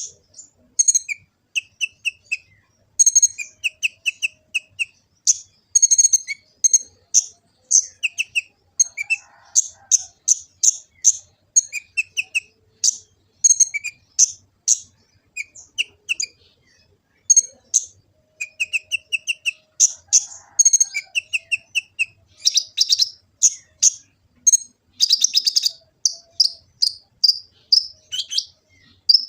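Kolibri ninja (konin) sunbird singing a dense, varied run of rapid high-pitched chirps and short trills with hardly a break.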